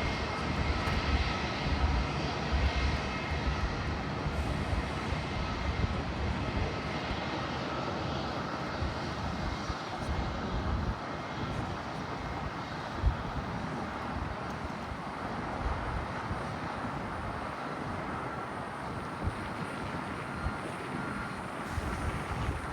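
Jet airliner engines running steadily: a low rumble with a few thin, steady whining tones above it.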